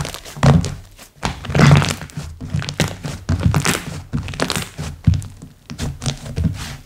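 Hands squeezing, pressing and stretching slime: a steady run of sticky clicks, pops and soft thuds, several a second.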